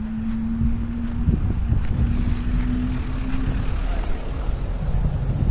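Low, steady motor-vehicle rumble with a humming tone that drops away about three and a half seconds in.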